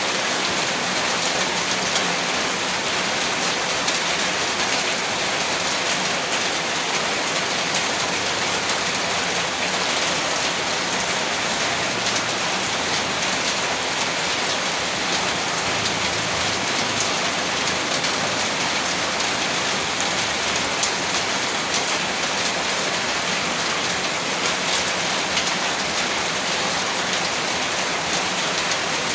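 Heavy rain falling steadily, a dense even hiss of rain on a surface with many small drop impacts.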